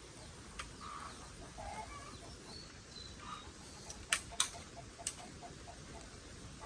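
Chickens clucking with small birds chirping. Three sharp clicks stand out: two close together about four seconds in and one about a second later.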